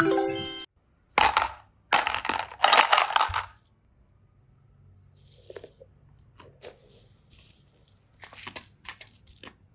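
A short chime at the start, then bursts of crackling, squishing noise from clay-mixed slime being pressed and pulled: three bursts in the first three and a half seconds, faint crackles, and a few more near the end.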